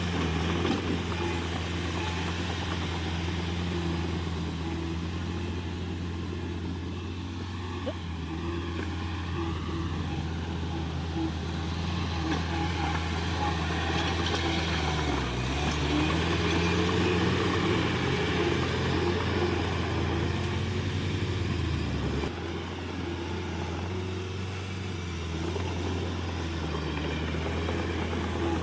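Heavy diesel engine running steadily. Its pitch dips and comes back up about halfway through, and the level drops a little about three-quarters of the way in.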